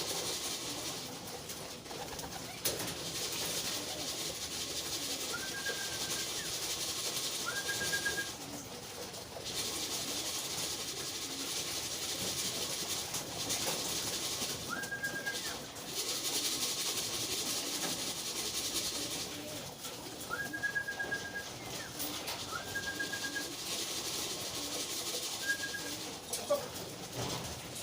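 Young racing pigeons cooing in their loft, over a steady high hiss that comes and goes in long stretches. About seven short, clear high notes, each rising then held level, sound through it.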